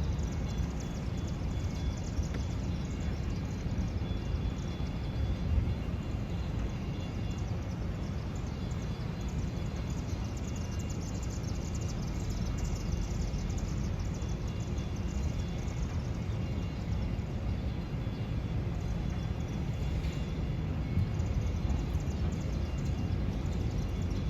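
Steady outdoor background noise with a low rumble and a faint hiss, even throughout; no horn sounds.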